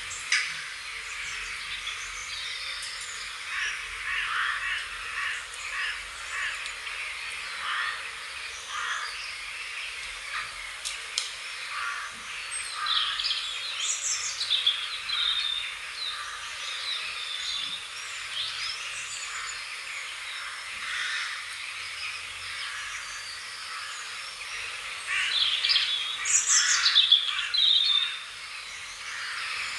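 Several songbirds chirping and calling over a soft background hiss, the calls growing denser and louder for a few seconds near the end.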